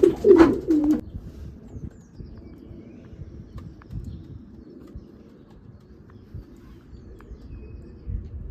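Racing pigeons cooing: loud, wavering coos in the first second, which then cut off suddenly, leaving a fainter, steady murmur of cooing.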